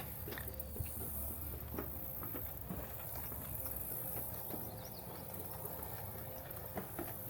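Footsteps of a person walking along a nature trail: a run of light, unevenly spaced steps over a steady high hiss.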